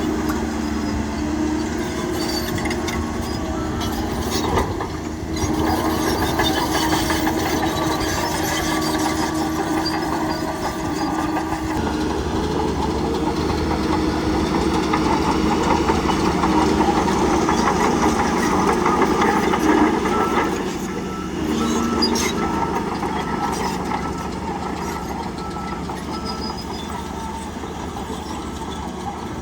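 Bulldozer's diesel engine working under load, its pitch shifting as it labours, with the metallic clatter of the steel tracks and occasional knocks.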